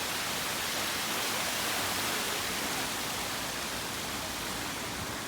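Steady, even rushing hiss with no distinct events, fading slightly over the last couple of seconds.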